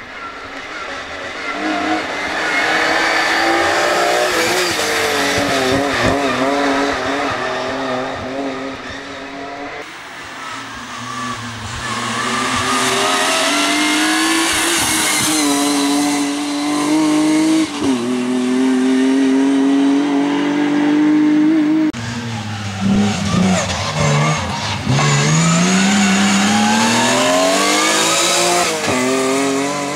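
BMW M3 rally car's engine at full racing pace, its pitch climbing through the revs, falling back at each gear change and off the throttle, then winding up again. The sound jumps abruptly a few times.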